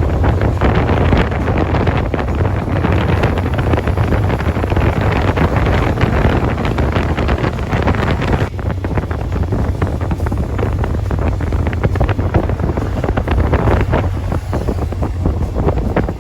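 Wind rushing over the microphone of a moving motorcycle, with a steady low rumble beneath it.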